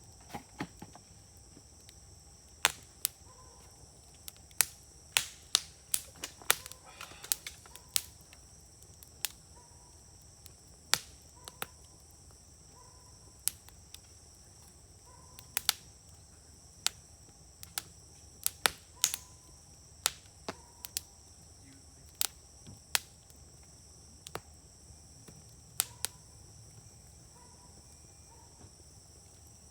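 Wood campfire crackling in a fire grill, with sharp, irregular pops every second or so, some coming in quick clusters. A steady, high shrill of insects runs underneath.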